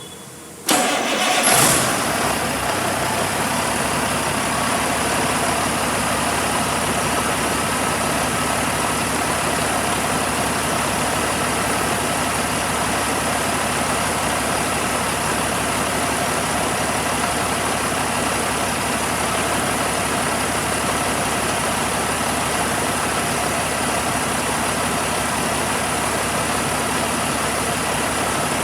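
Caterpillar 3406C inline-six diesel engine starting about a second in, flaring up briefly, then settling into a steady idle.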